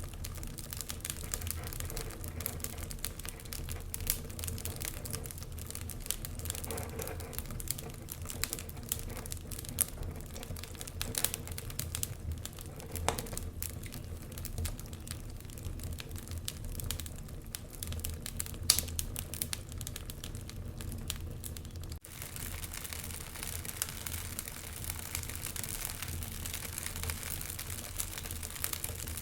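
Wood fire burning in a fireplace, crackling with many sharp pops over a low steady rumble of the flames. About three quarters of the way through, the popping thins out into a smoother, even hiss.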